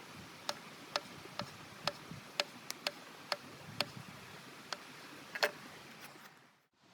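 A series of sharp, short clicks, roughly two a second at slightly uneven spacing, over a faint steady hiss, fading away near the end.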